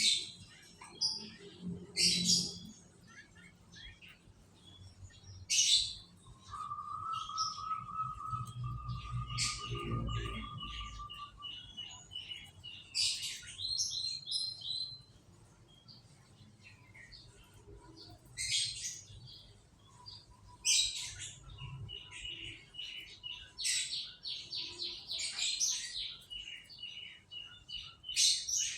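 Domestic canaries singing: rapid high trills and sharp chirps, with a lower, even rolling trill from about seven to eleven seconds in.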